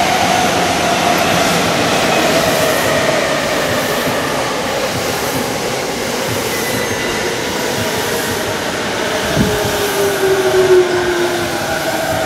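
Yokosuka Line electric train pulling in and braking to a stop, its motor whine falling slowly in pitch as it slows, over wheel rumble. A second, lower falling whine comes near the end, with a short thump about nine seconds in.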